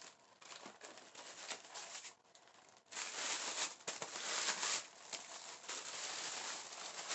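A package being cut open with a knife and its wrapping crinkled and torn: scratchy rustling with small clicks, growing louder about three seconds in.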